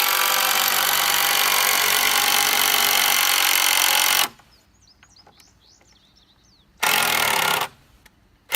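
Power drill driving a screw into wooden framing in one steady run of about four seconds, then two short bursts near the end as further screws are driven. The screws are being run in short of fully tight to hold the boards for a dry fit.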